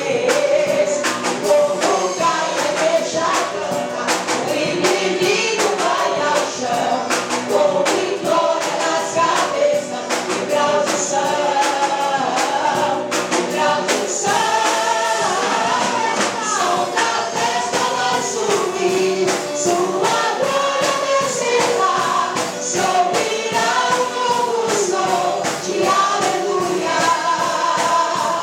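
Gospel song sung by a choir with band accompaniment, over a steady percussive beat.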